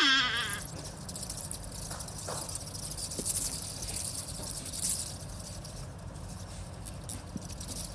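A short wavering animal call that falls steeply in pitch at the very start. Then a steady high, fast chirring, like insects, over a faint low hum, with a brief faint call about two seconds in.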